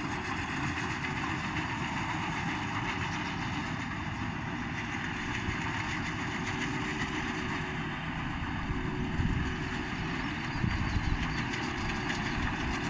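Tractor engine running steadily, with a few brief louder knocks about nine and eleven seconds in.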